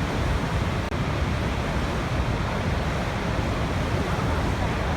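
Waterfall rushing: a steady, dense roar of falling water, heaviest in the low end, with a momentary dropout just under a second in.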